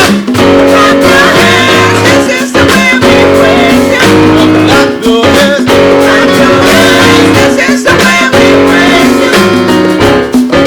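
Live church praise music led by a strummed guitar, with steady sustained chords.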